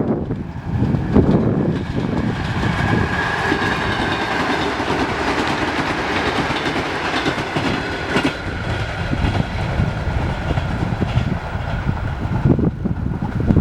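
ЭП3Д electric multiple unit passing close by at speed, a dense rushing noise over a steady high tone, easing off near the end.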